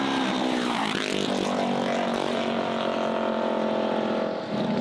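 Small mini bike engines running steadily, with one engine's pitch dipping and rising again about a second in.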